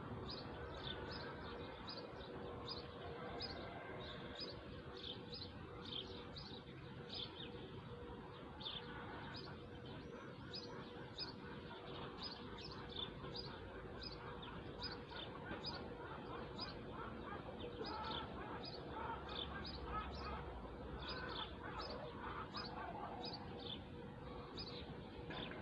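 A bird repeating a short, high chirp about twice a second, on and on at an even pace, over steady outdoor background noise.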